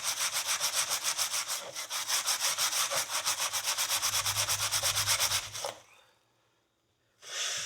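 Steel wool scrubbing a steel horseshoe in fast back-and-forth strokes, about seven a second. The scrubbing cuts off about six seconds in, and after a second of silence a steady hiss starts near the end.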